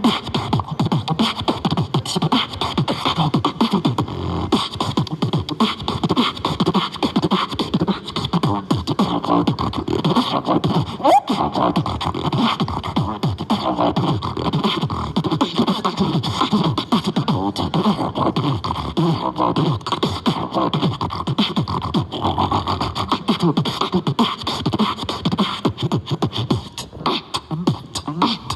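Continuous beatboxing: fast percussive mouth clicks and pops mixed with short pitched vocal sounds, without a break.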